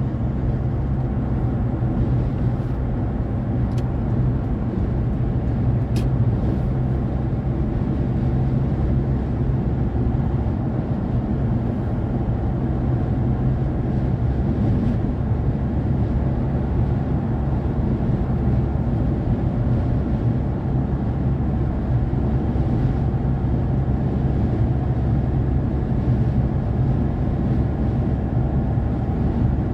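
Steady low road noise of a moving car: tyres and engine giving an even drone, with a faint click about six seconds in.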